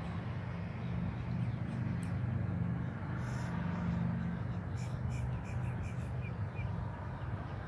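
Outdoor marsh ambience: a steady low rumble, with a quick run of about seven short bird chirps starting about five seconds in.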